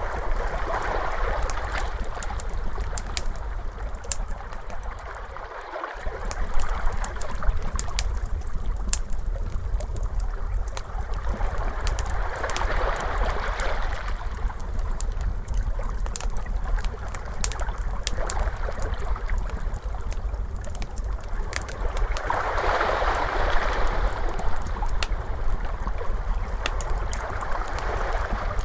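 Crackling fire layered with ocean waves: frequent sharp pops and crackles over slow washes of surf that swell and fade every several seconds, on a steady low rumble. The rumble drops out briefly about six seconds in.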